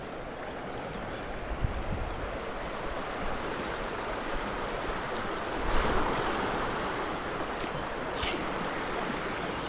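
River water flowing steadily, with a brief louder swell of water about six seconds in.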